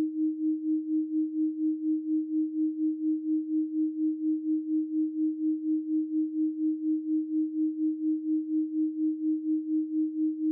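A steady 312 Hz pure sine tone, one unchanging pitch, whose loudness pulses evenly about four times a second.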